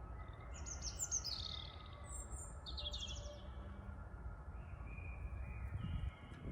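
A small songbird chirps a quick run of high, falling trills over a low, steady rumble of wind and distant city noise.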